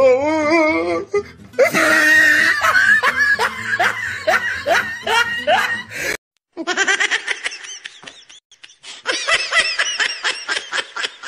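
Loud, high-pitched laughter in quick repeated bursts. It cuts off abruptly about six seconds in, and after a brief silence a second run of rapid laughter follows with a different sound quality, like an edited-in laugh clip.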